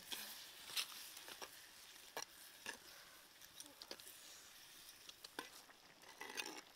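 Chopped tomatoes, garlic and dried chillies sizzling in a clay pot as they are stirred, with a steady high hiss and scattered sharp clicks.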